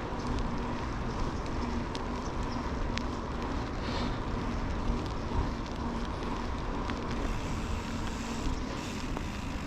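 Steady vehicle and road noise with a constant low hum and a few faint clicks.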